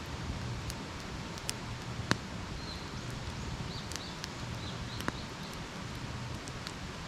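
Wood campfire burning, with a steady hiss and scattered sharp crackles and pops, the loudest pop about two seconds in.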